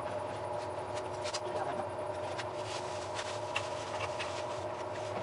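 A standing train's equipment running with a steady hum of several held tones, with scattered light clicks and scratching noises over it.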